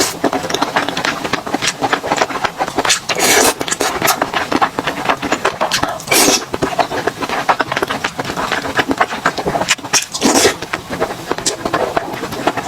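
Close-miked eating sounds: a steady run of wet chewing clicks and crackles, with a louder crunching bite about every three to four seconds.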